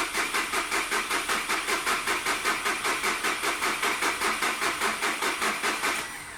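Starter cranking a Skoda Fabia's 1.4 TDI three-cylinder pump-injector diesel, with an even rhythm of about five compression beats a second, without the engine catching. The cranking stops near the end. This is an unsuccessful start attempt.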